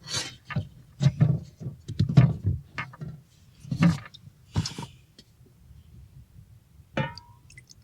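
A run of short knocks and scrapes from cookware and food being handled at a small cooktop through the first five seconds, then one more brief sound near the end.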